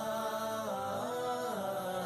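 Background music: a slow, chant-like vocal melody with long held notes that glide gently in pitch.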